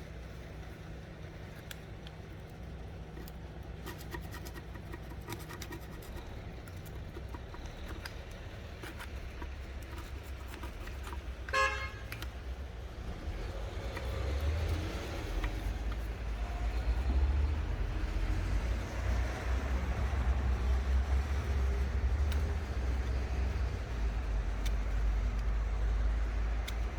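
A short horn-like beep about halfway through, then a low, steady mechanical rumble that builds and stays loud to the end.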